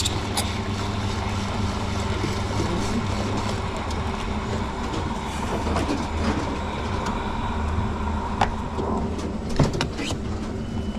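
Espresso machine running with a steady low mechanical hum. A few sharp clicks and knocks come near the end.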